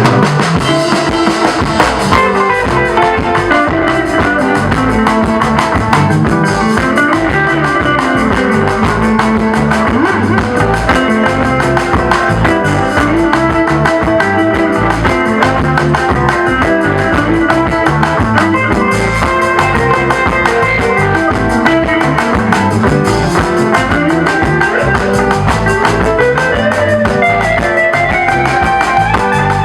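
Congolese band music with a guitar solo: quick melodic guitar runs rising and falling over a steady drum kit beat.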